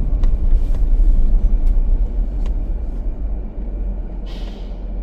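Steady low rumble of a car running, with a few faint clicks and a brief soft hiss near the end.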